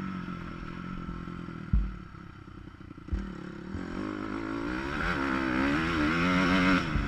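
Motocross dirt bike engine under way, muffled through a waterproof camera housing: a thud about two seconds in, the engine dropping quieter off the throttle, then pulling back up and revving with wavering pitch through the second half, with another thud near the end.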